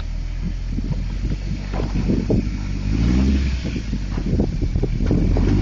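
Toyota Tacoma rock crawler's engine pulling at low speed as the truck crawls forward over rock, the revs rising and falling with the throttle and climbing around the middle.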